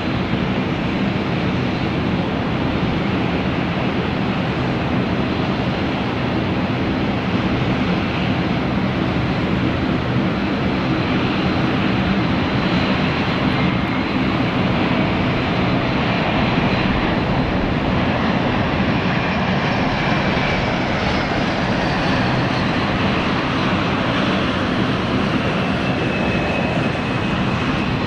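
Airliner engines running, a steady, loud noise that barely changes in level, with a faint high whine showing through in the second half.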